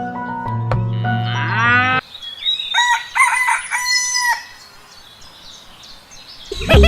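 Music of steady notes ending in a rising slide, which cuts off about two seconds in; a rooster then crows for about two seconds, followed by quiet background hiss.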